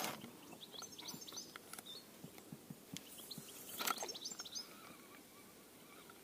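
Faint bird chirping, short quick high notes in two bursts, about a second in and again around four seconds in. There is brief rustling handling noise near the start and just before the second burst.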